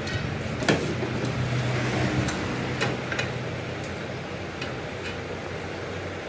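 A workshop machine running with a steady low hum, with irregular sharp clicks and light knocks about every half second to second.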